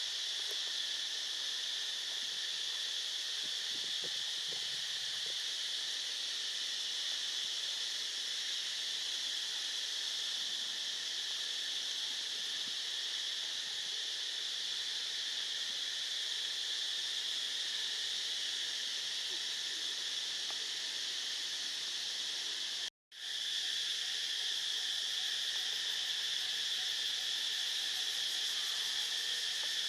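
Steady chorus of insects, an unbroken high buzz that cuts out for a moment about 23 seconds in and then resumes.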